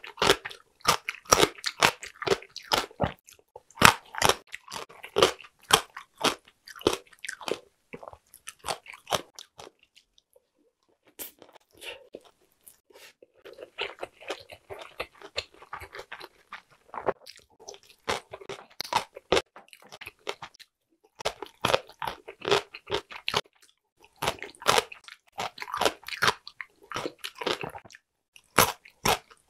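Close chewing of crunchy yellow pickled radish (danmuji): rapid crisp crunches, with a short pause and a softer stretch of chewing in the middle.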